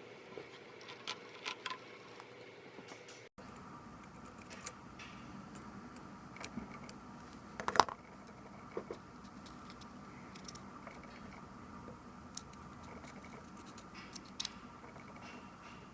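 Scattered small clicks and taps of tools and tiny parts being handled while a Canon PowerShot S110 compact camera is taken apart, with a sharper click cluster about halfway through.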